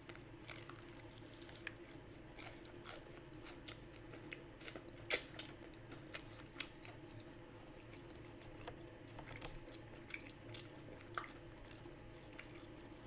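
A person chewing a sandwich close to the microphone, with irregular crunches and wet mouth clicks; the loudest crunch comes about five seconds in.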